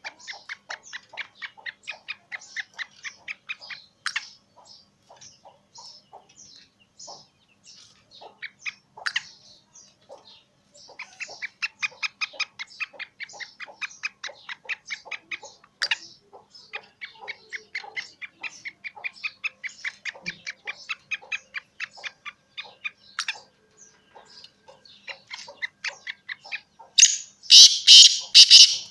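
Black francolin calling: long rapid series of short, sharp chirps, about five or six a second, broken by pauses. A much louder, harsher burst of calling comes near the end.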